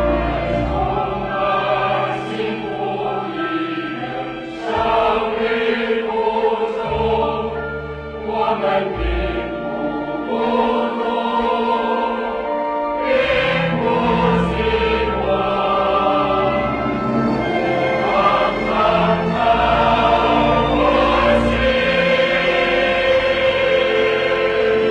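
Choir singing a song with musical accompaniment.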